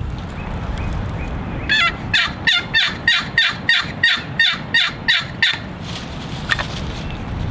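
A run of about a dozen raspy turkey yelps, evenly spaced at about three a second, the first few dropping in pitch, over steady wind noise on the microphone.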